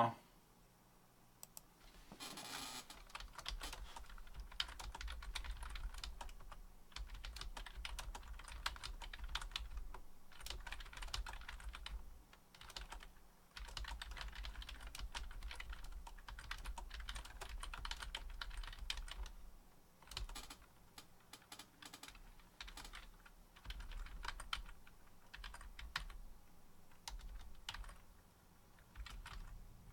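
Faint computer-keyboard typing: irregular runs of key clicks over a low steady hum.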